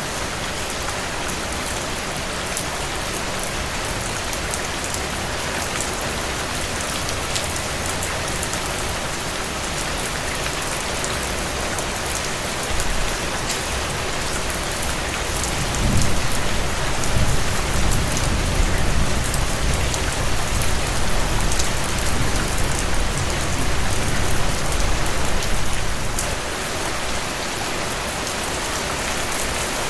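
Steady rain falling on a surface, an even hiss. About halfway through, a low rumble comes in suddenly and lasts around ten seconds before fading back to the plain rain.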